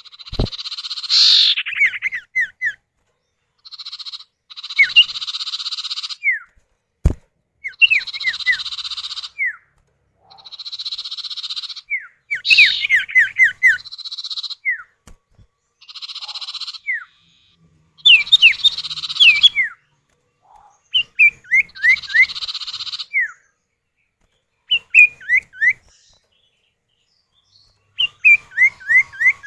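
Common ioras (sirtu, cipoh), male and female calling back and forth: bouts of quick, falling whistled notes alternate with harsh, buzzy calls about a second or two long, repeated with short pauses between bouts.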